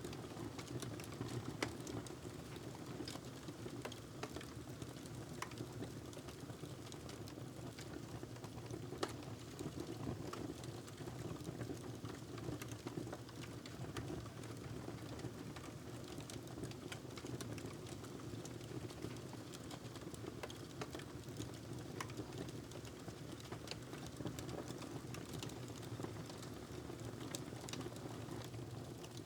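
Wood fire crackling in a fireplace: many small irregular pops and snaps over a steady low rush.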